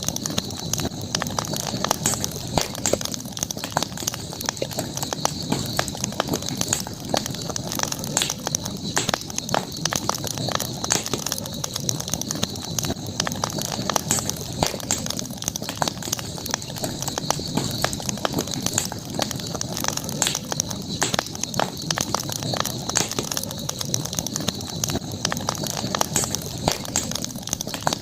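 Campfire crackling, with many small irregular pops and snaps over a steady high-pitched drone.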